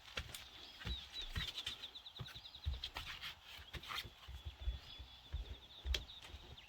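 A bird singing one long, high trill of rapidly repeated notes at a steady pitch, starting about a second in. Footsteps thud on the ground under it.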